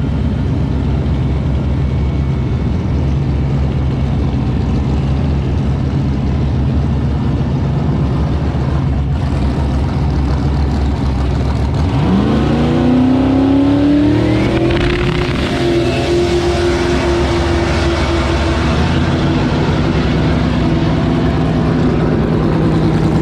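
Drag race car engine running low and steady, then about twelve seconds in launching at full throttle, its pitch climbing steeply before levelling off and holding high as the car runs down the strip.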